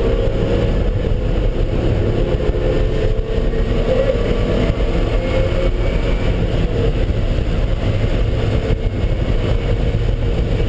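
A car engine running steadily under way on a race track, its pitch drifting gently up and down with the throttle, over a heavy low rumble.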